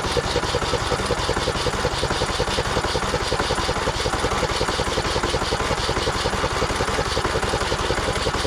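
Craftsman T1600 lawn tractor's electric starter cranking the engine in a fast, steady rhythm without it catching, on a start attempt after weeks of sitting.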